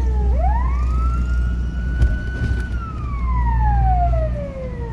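Fire engine siren wailing over a low, steady engine drone. The tone sweeps up quickly, holds high for about two seconds, then slides slowly down, and starts a new rise near the end.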